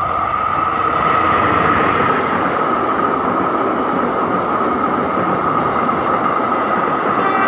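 Train running past on the rails: a loud, steady rolling noise with a steady high-pitched ringing tone over it.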